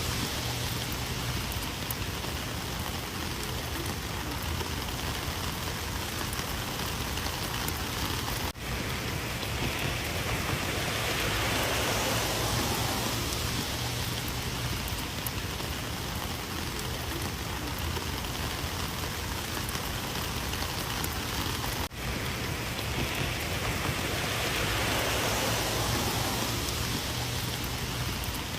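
Heavy rain falling steadily, a constant dense patter that swells gently now and then, with two very brief dips in level partway through.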